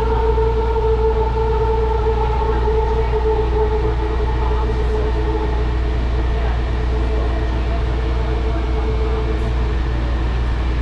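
A moving rail car heard from inside: a steady low rumble under a whine of several steady tones, with the whine fading away in the last few seconds.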